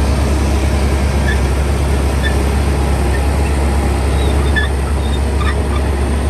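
Heavy earthmoving machine's diesel engine running steadily, a loud deep drone.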